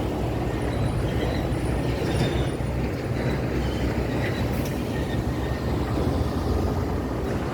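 Street traffic with heavy vehicles, a steady low rumble of engines and tyres from passing trucks, cars and motorcycles.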